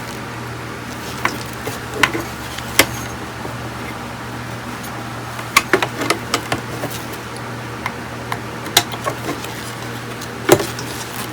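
Scattered sharp clicks and light knocks of hard tools and parts being handled on a workbench, the loudest near the end, over a steady low hum.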